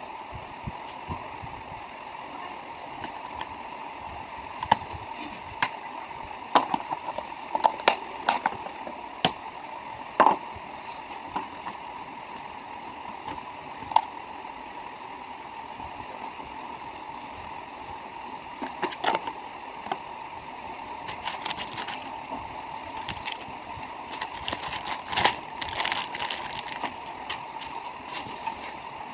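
Irregular clicks and knocks of items being handled and set down, over a steady hiss. The clicks come in two clusters, one about a third of the way in and one in the later part.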